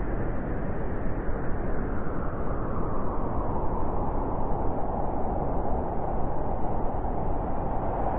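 Blizzard wind blowing steadily, a dense rushing noise with a howling band that grows stronger about halfway through.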